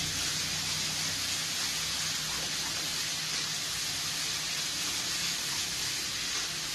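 Chili paste sizzling in hot oil in a wok as it is stir-fried, a steady hiss.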